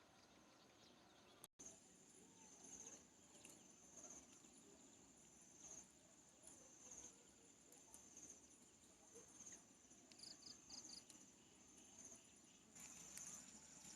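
Faint, steady high-pitched chirring of insects, a pulsing trill, with four quick chirps about ten seconds in and the chirring growing louder near the end. The sound drops out for an instant about a second and a half in.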